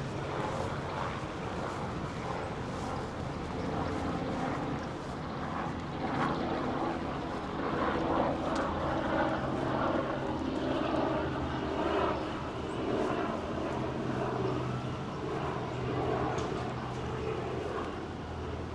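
A steady low engine drone that swells slightly in the middle and eases off near the end, over general outdoor background sound.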